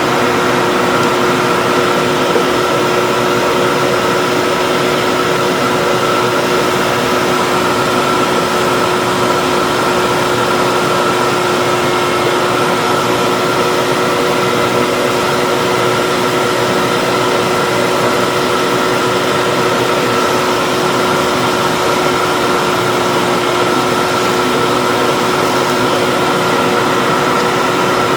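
An electric workshop machine running steadily, a constant motor hum with a fixed whining tone and no changes in load or speed.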